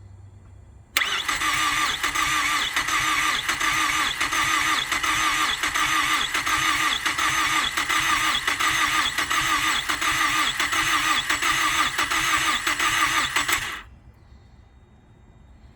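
Mazdaspeed 3's turbocharged 2.3-litre four-cylinder being cranked over by the starter motor in a steady rhythm without catching. The cranking starts about a second in and stops near the end. The engine won't fire because its ignition ground is not connected.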